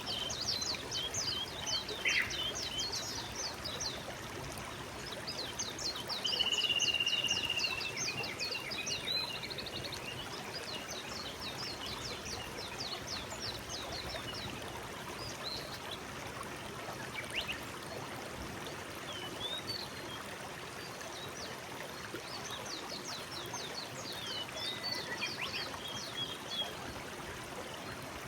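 Forest stream flowing steadily, with a songbird singing over it in several bouts of rapid, high, down-slurred notes, one phrase holding a steady high note about six seconds in.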